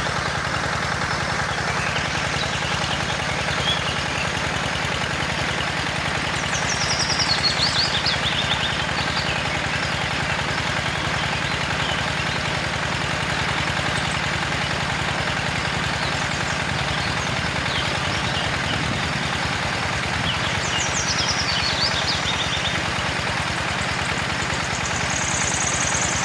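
Small gasoline engine of a mini water pump running steadily.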